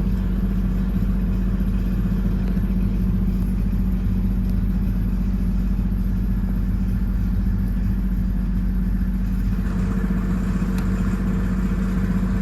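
Ride-on 1/8-scale locomotive's small engine running steadily at low speed, an even drone that gets a little fuller near the end.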